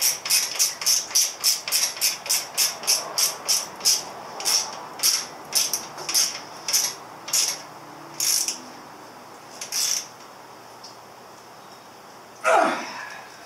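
Ratchet wrench clicking as exhaust bolts are tightened: quick strokes of about five a second, slowing after about four seconds and stopping near ten seconds. A brief sound falling in pitch follows near the end.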